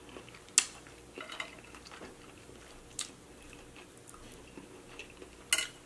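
Close-miked eating: a person chewing king crab meat dipped in cheese sauce, with soft wet mouth sounds and three sharp clicks, the loudest about half a second in.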